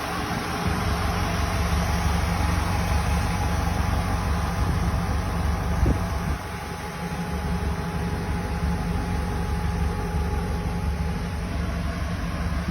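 Hot rod's 331 Chrysler Hemi V8 idling steadily, with a short knock about six seconds in, after which it runs a little quieter.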